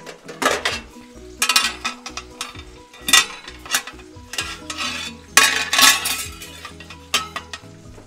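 Banana spring rolls frying in hot oil in a nonstick pan, with sugar caramelizing in the oil: a steady sizzle broken by loud crackling spatters every second or so, the biggest burst a little past the middle.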